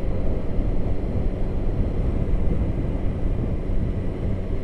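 Motorcycle on the move: its engine runs steadily under a continuous rush of wind noise.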